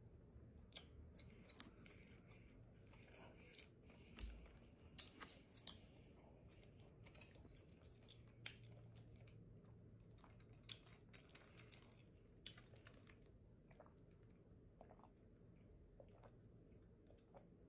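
Faint eating sounds: chewing and sipping a drink through a straw, heard as scattered small wet mouth clicks, a few slightly louder ones about four to six seconds in.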